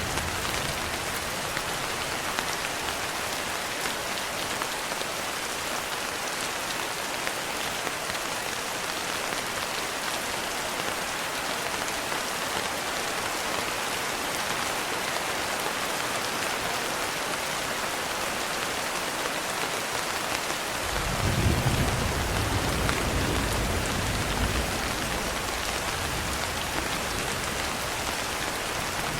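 Steady rain falling as an even hiss. About three-quarters of the way through a low roll of thunder rumbles in and fades away over a few seconds.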